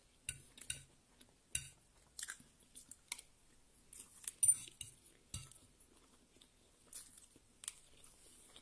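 Close-miked chewing of fried rice: irregular soft mouth clicks and smacks, with a louder bite about four and a half seconds in.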